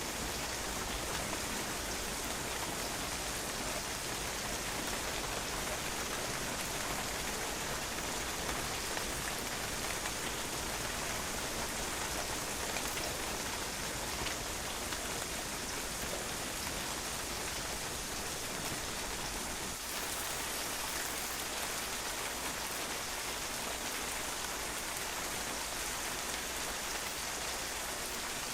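Steady rain falling on a patio, drops pattering and bouncing off the hard surface in an even, dense hiss.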